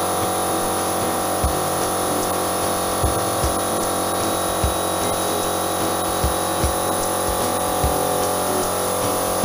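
Steady motor hum of an airbrush air compressor. Over it, a deep thump repeats about every second and a half, sometimes followed quickly by a second one.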